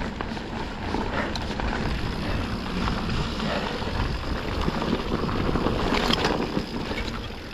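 Yeti SB160 mountain bike riding down a dry, rocky dirt trail: a steady rush of tyre noise on dirt with bike rattle and knocks, and a sharper clatter about six seconds in.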